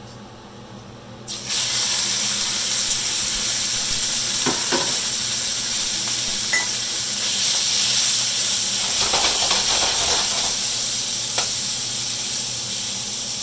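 Chicken frying in smoking-hot oil in a wok, a loud steady sizzle that starts suddenly about a second in, with a few light clicks of a utensil against the wok.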